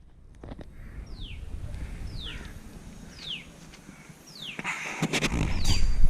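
A bird calling over and over, a short falling whistle about once a second. A low rumbling noise builds up near the end.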